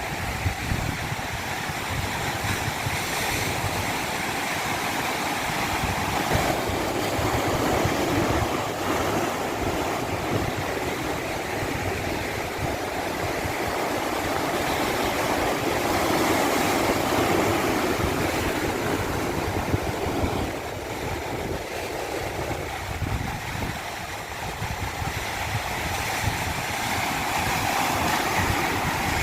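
Stream water rushing down a small cascade: a steady rush with a deep rumble, swelling in the middle and easing somewhat about two thirds of the way through.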